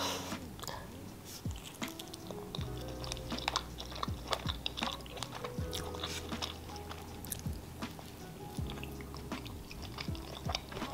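Close-up chewing of a grilled quesadilla: many small wet clicks and smacks of a mouth eating the soft tortilla and filling. Quiet background music with a few held notes plays under it.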